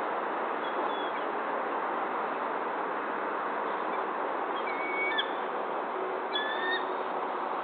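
Two short, high whistled bird calls about a second and a half apart, over a steady hiss of background noise.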